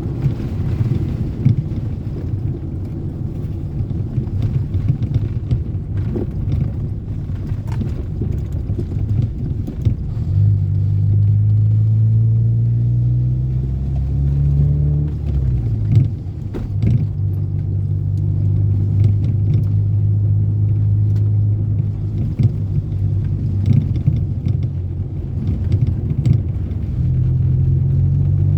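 Toyota Corolla AE80 being driven: a low rumble of engine and road noise. About ten seconds in it gives way to a steady engine drone that climbs in pitch, drops sharply around fifteen seconds in, then holds steady, with scattered light knocks.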